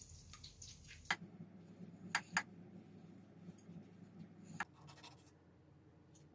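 A few light clicks and knocks of kitchen items being handled: one about a second in, two close together a second later, and one more near the middle, over a faint low hum.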